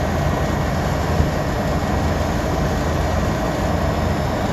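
Walk-in freezer's rooftop condensing unit running steadily, with its newly replaced compressor and condenser fan humming as the system pumps down after being put into defrost.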